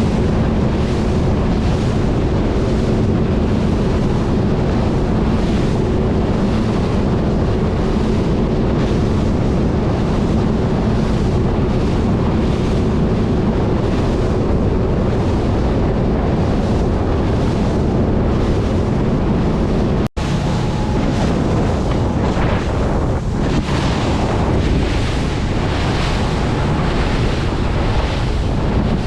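Wind buffeting the microphone over the wash of waves, with a steady low hum underneath. About two-thirds of the way through, the sound cuts out for an instant; after that the hum is gone and only wind and waves remain.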